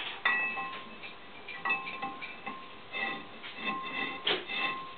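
Steel nut being screwed onto freshly cut threads: irregular light metallic clinks, about eight in five seconds, each with a short ringing tone.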